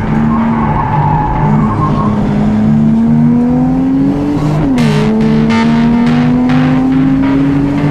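Turbocharged Nissan 350Z V6 under hard acceleration, heard from inside the cabin. The engine note climbs steadily, drops abruptly at an upshift a little past halfway, then climbs again. Music with a steady beat runs underneath.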